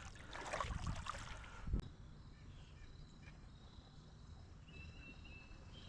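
Water splashing and sloshing in a shallow creek for nearly two seconds, ending in a sharp knock. Then faint creek ambience with insects trilling, a short high trill near the end.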